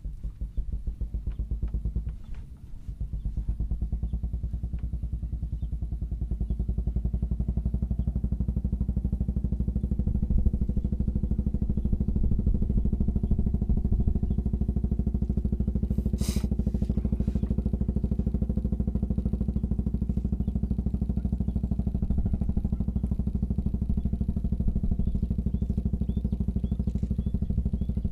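A small engine running steadily. Its sound settles a couple of seconds in and holds there, with one short hissing burst about halfway through.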